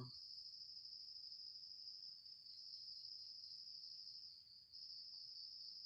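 Crickets chirring faintly in a steady high-pitched trill.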